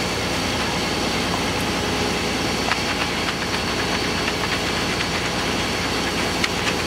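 Concrete truck's diesel engine running steadily during a concrete pour, with a few light knocks and clicks over it.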